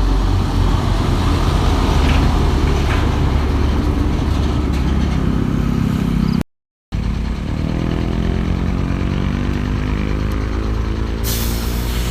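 Hino 500 truck's diesel engine working hard under a heavy load. After a brief break its revs climb steadily, and a short hiss sounds near the end.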